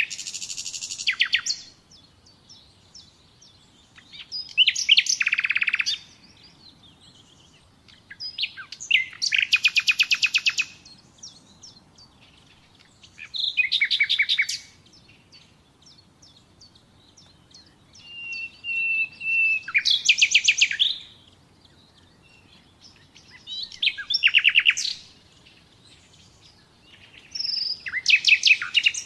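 Nightingale singing: short phrases of rapid repeated notes and trills, separated by pauses of a couple of seconds. One phrase opens with a long whistled note.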